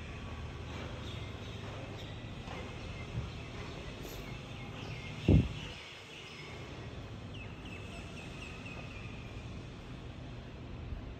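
Small birds chirping over steady outdoor background noise, with a run of short repeated calls near the end. A single low thump about five seconds in.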